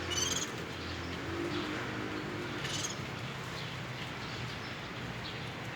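Small birds chirping: a short, high trilled chirp right at the start and another near three seconds, with a few fainter chirps between, over a steady low hum.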